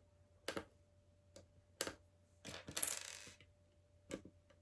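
Small plastic LEGO pieces being handled: a few sharp clicks and taps, with a longer clattering rattle of loose pieces about halfway through.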